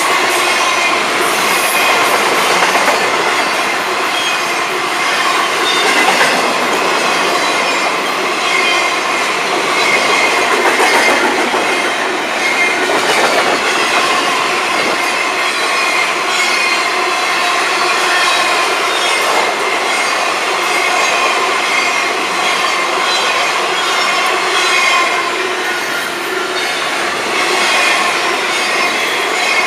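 Cars of a long freight train rolling past: a steady rumble of steel wheels on rail, with rapid clicking over the rail joints and a thin, wavering squeal from the wheels.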